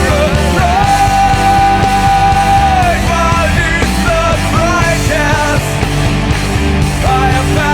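Grunge rock song in an instrumental passage: drums and bass under a lead line that holds one long note for about two seconds, then plays short bending notes.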